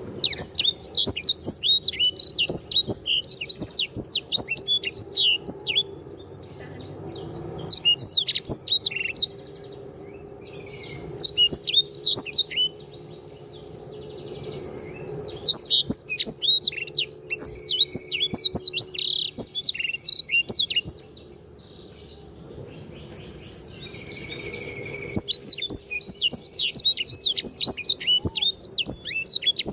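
Sanger songbird singing in fast, high twittering phrases a few seconds long, broken by short pauses.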